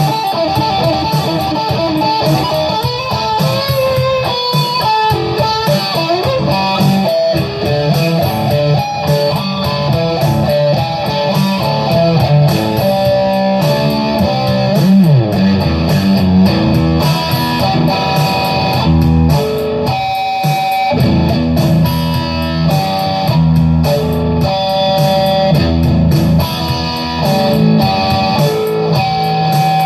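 Electric guitar playing improvised lead lines: runs of single notes with some held notes and a sliding or bent note about halfway through.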